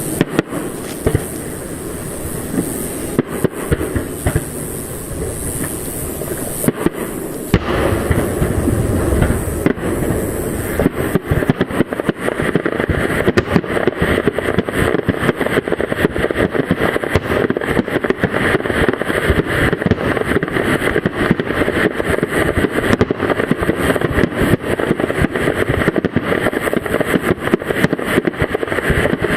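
Fireworks display: separate shell bursts with low booms for the first ten seconds or so, then dense continuous crackling that lasts to the end.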